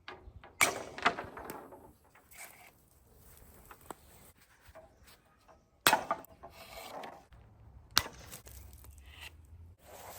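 Leftover fence wire being cut and pulled off a wooden fence: three sharp snaps, about half a second in, near six seconds and at eight seconds, with scraping and rattling of wire against wood between them.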